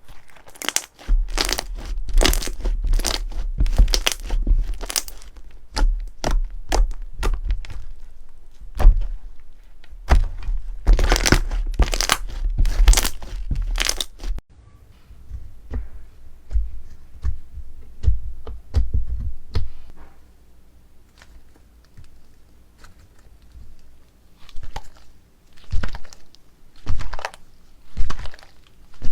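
Hands working crunchy slime: dense crackling and popping. About halfway through, the sound changes abruptly to sparser pops and clicks, with a faint steady hum behind them.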